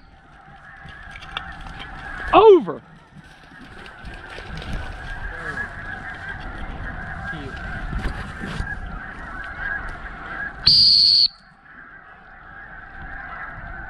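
A large flock of snow geese calling in a dense, steady chatter. About eleven seconds in comes one sharp, high, half-second blast of a dog-handling whistle, used to steer a retriever.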